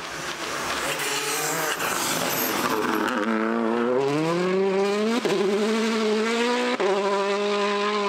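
Rally car engine accelerating, its pitch rising steadily from about three seconds in, with two brief breaks near the middle and end. A rushing hiss comes first.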